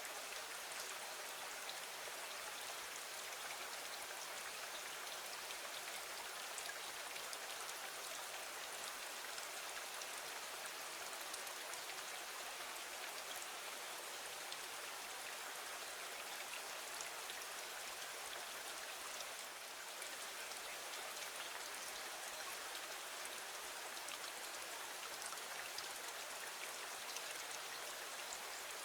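Steady rain falling against a window: a dense, even patter of drops with faint individual ticks, unchanging throughout.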